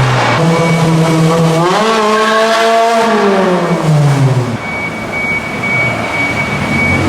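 Car engine revving once: a steady note climbs from about two seconds in, holds briefly and drops away by about four and a half seconds, leaving a quieter steady background. A thin, steady high tone sounds before and after the rev.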